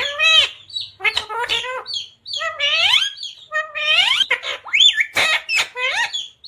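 Pet talking parrot chattering in a quick run of short, shrill, speech-like calls and squawks, with pitch bending up and down and a sharp rising whistle about two-thirds of the way through.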